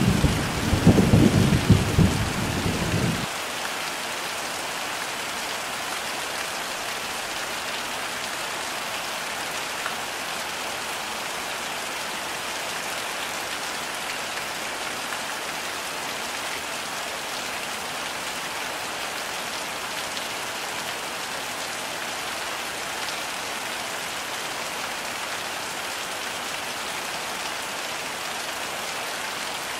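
Heavy rain falling steadily, with a loud low rumble of thunder for the first few seconds that cuts off suddenly, leaving only the even hiss of the rain.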